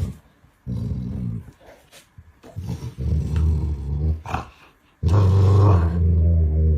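A dog growling: three long, low growls, the last the loudest.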